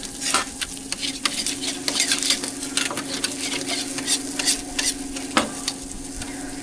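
Food sizzling as it fries on a hot cooking surface, with repeated sharp scrapes and taps of a utensil, two of them standing out about half a second in and near the end. A steady hum runs underneath.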